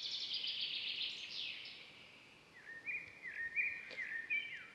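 Birds singing: a fast trill of high notes over the first two seconds, then a run of short, repeated chirps that drop in pitch.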